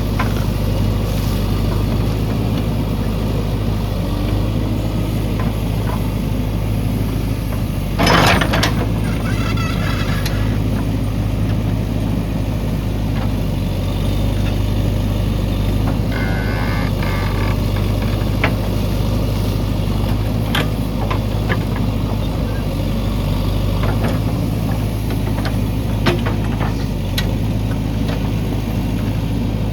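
JCB 3DX backhoe loader's diesel engine running steadily while working, with a brief loud burst about eight seconds in and a few sharp knocks later on.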